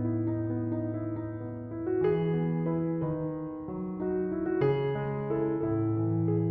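Background piano music: a slow, gentle melody played over sustained low notes.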